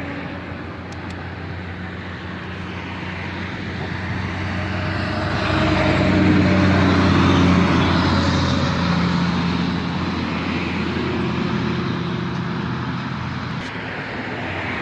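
Road traffic passing: a steady low engine hum and tyre noise swell to a peak about six to eight seconds in, then ease off.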